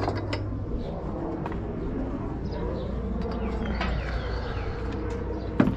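Steady low hum with scattered light clicks and knocks of scrap metal being handled, and one sharp knock near the end; faint bird chirps now and then.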